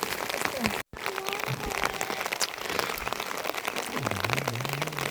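Steady rain falling, with many close drops ticking on surfaces. The sound drops out briefly about a second in, and a faint voice comes in near the end.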